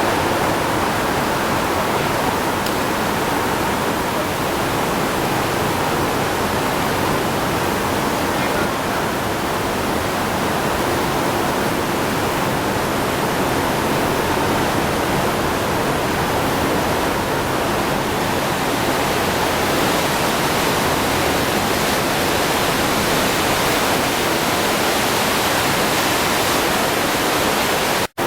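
Steady, loud rushing noise with no distinct beats or tones, broken by a brief dropout just before the end.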